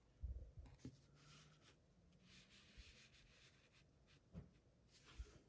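Faint handling of trading cards: a quiet papery rubbing as cards slide against each other, with a few soft knocks as they are set down.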